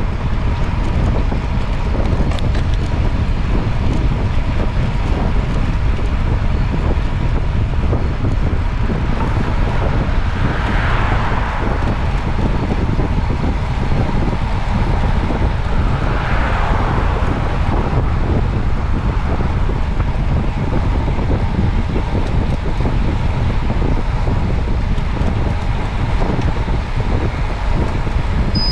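Wind rushing over the microphone with steady road rumble while travelling along a road. Twice, about a third of the way in and again a few seconds later, a brief swell of hiss rises and fades, as a vehicle passes.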